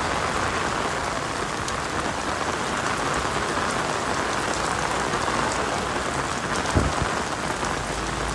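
Heavy rain falling steadily, a constant hiss with fine pattering drops, and a single short thump about three-quarters of the way through.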